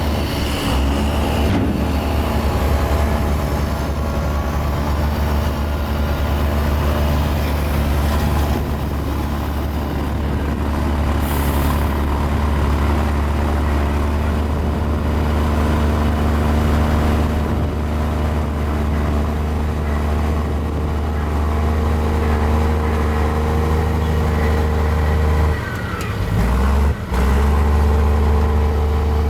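Mini Komatsu bulldozer's diesel engine running steadily as it works. Near the end the engine note dips briefly, then climbs back up.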